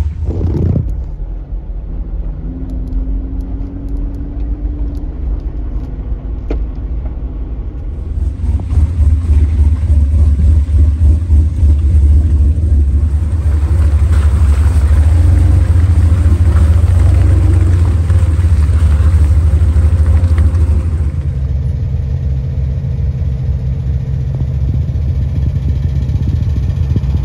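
Off-road Jeep engine running with a deep, steady low rumble while driving, louder from about eight seconds in and easing a little near the end.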